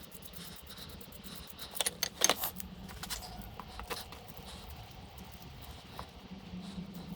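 Small metal parts or tools clinking and rattling as they are handled, with a cluster of sharp metallic clinks about two seconds in and a few lighter clicks later.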